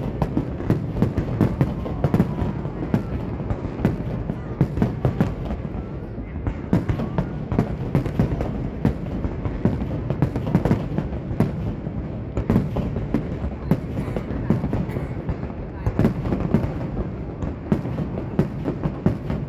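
Fireworks display: a dense, continuous run of booms and crackles with no let-up.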